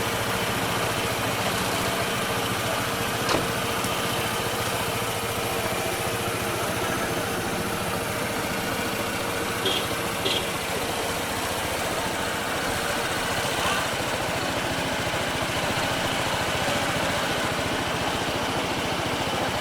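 A motorcycle or scooter engine idling steadily, with two short high chirps about ten seconds in.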